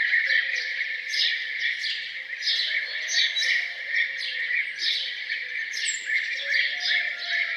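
Songbirds singing a morning chorus: quick, repeated chirps several times a second over a steady, dense wash of song.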